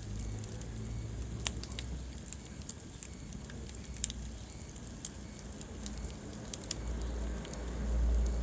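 Fire in a fireplace crackling, with irregular sharp pops and snaps over a low steady rumble that swells near the end.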